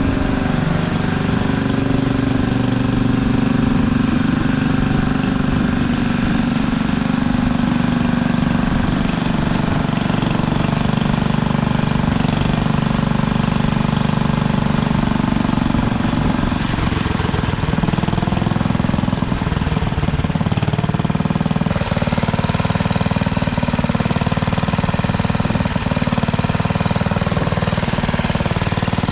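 Simplicity Landlord garden tractor engine running steadily, with a shift in its note about two-thirds of the way through.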